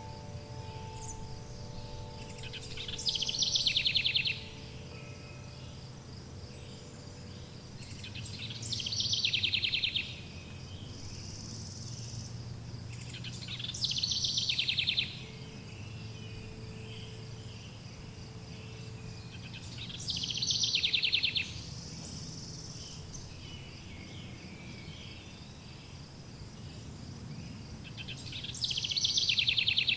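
A songbird repeating the same phrase five times, about every six seconds, each phrase ending in a fast trill. Between the phrases run a steady high insect-like buzz and a low rumble, with faint ringing tones from wind chimes near the start and again midway.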